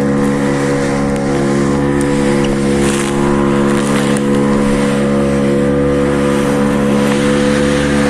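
Boat engine running steadily at a constant speed, a low even drone with a hiss of wind and water over it.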